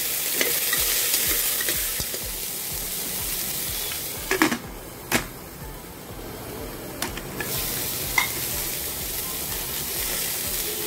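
Diced pumpkin sizzling in hot mustard oil in a pressure cooker while a metal spoon stirs it. A few sharp knocks of the spoon against the pot come around the middle, where the sizzle briefly dies down.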